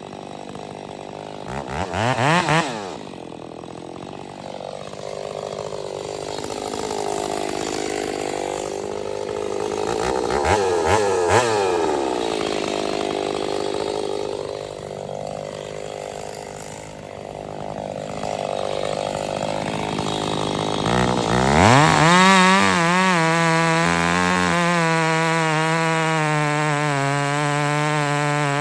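A gas chainsaw revving in several surges, its pitch rising and falling. Near the end it revs up sharply and holds a steady high pitch at full throttle.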